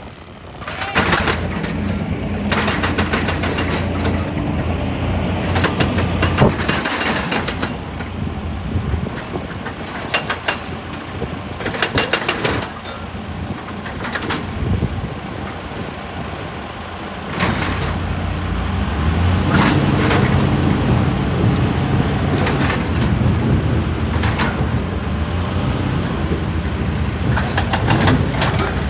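Heavy diesel excavator engine running with repeated metallic clanks and knocks, as of a bucket and tracks working on rock. The engine grows louder a little over halfway through, as if working under more load.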